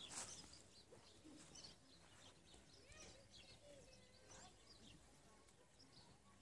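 Near silence, with faint bird chirps now and then.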